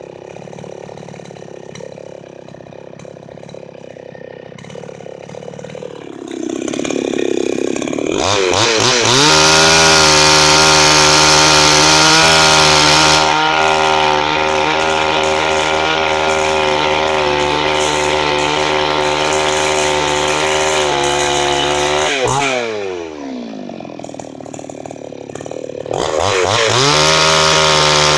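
Chinese-made two-stroke gasoline chainsaw running at low speed, then throttled up about eight seconds in and held at high revs for some thirteen seconds. It drops back to idle, then is revved up again near the end.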